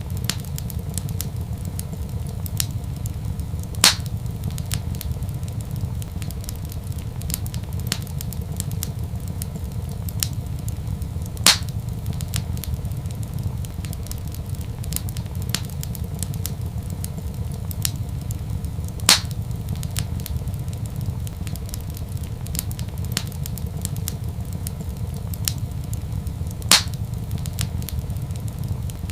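Wood fire crackling in a fireplace: a steady low rumble with many small snaps throughout and four louder pops at even intervals, about seven and a half seconds apart.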